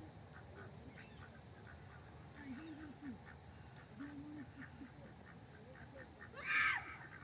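Ducks quacking a few times at a lake, over a faint regular chirping about three times a second, with one short, louder call near the end.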